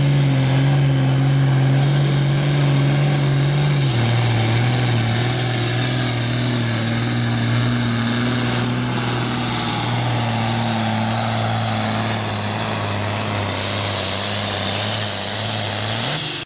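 Hot farm pulling tractor's diesel engine running hard and steady under load down the track. Its pitch drops slightly about four seconds in and climbs again just before the end.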